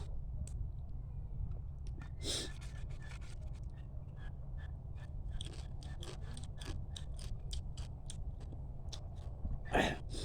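Mud crab being eaten close to the microphone: a run of quick sharp clicks and cracks of shell and chewing, with a louder noisy burst about two seconds in and another near the end, over a steady low hum.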